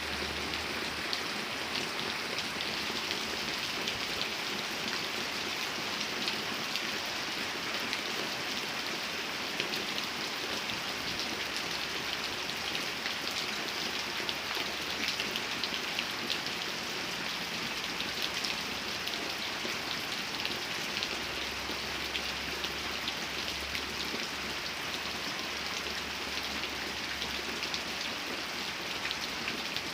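Steady rain falling: a continuous, even hiss flecked with many small drop ticks, unchanging throughout.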